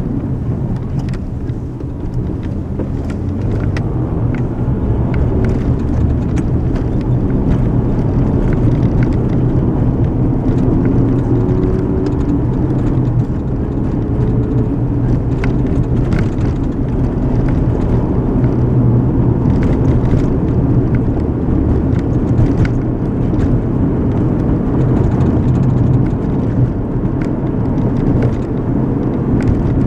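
Steady road noise from inside a moving car: a low rumble of tyres and engine, with a few faint clicks here and there.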